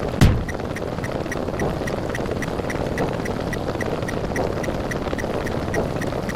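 Buzzer sound effect running as a steady buzzing hum, with a faint rapid ticking about six times a second and one sharp click just after the start.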